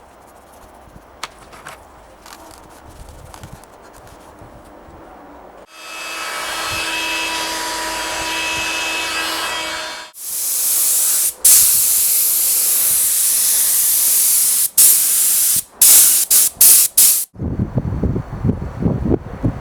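Compressed air hissing from an air tool: one steady hiss for about four seconds, then a louder, brighter hiss in long runs cut by several short pauses, as the trigger is released.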